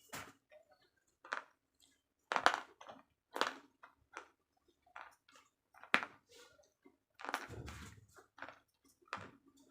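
Slate pencils being bitten and chewed close to the microphone: sharp, dry crunches at irregular intervals, about eight in all, the loudest about two and a half seconds in and at six seconds.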